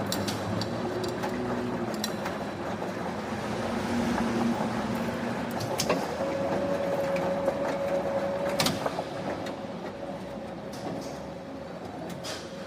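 Heavy factory machinery running in a steady industrial din, with scattered sharp metallic clanks and knocks. A steady hum sounds from about six seconds in to just before nine seconds.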